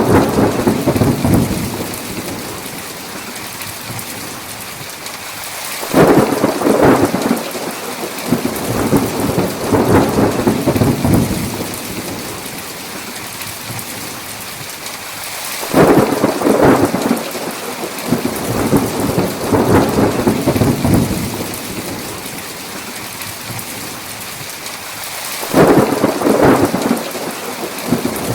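Steady heavy rain with rolling thunder. Three thunder rolls break in suddenly about ten seconds apart, each rumbling on for several seconds over the rain, and the tail of an earlier roll fades out at the start.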